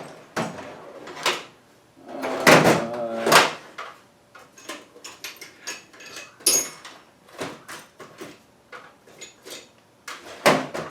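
Tool drawers sliding and metal tools clattering as they are rummaged through: a louder scraping rattle a couple of seconds in, then scattered clicks and knocks.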